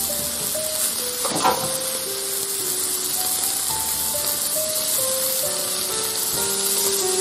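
Beef, shrimp and mushrooms sizzling in a hot metal pan on a camp stove grill, a steady hiss, with a utensil knocking once against the pan about a second and a half in. Soft background music with a plucked melody plays along.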